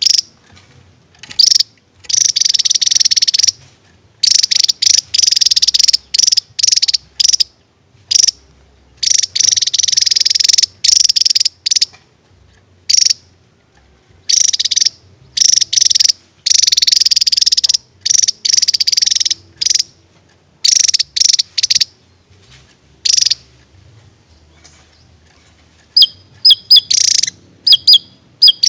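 Javan tesia singing its rapid burst song: high, fast trilling phrases, some brief and some over a second long, broken by short pauses. Near the end it changes to a quick run of short, sharp whistled notes.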